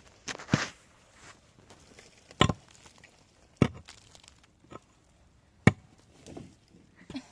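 Four sharp, heavy blows about a second or two apart, like a tool striking wood or earth, with softer knocks and rustling between.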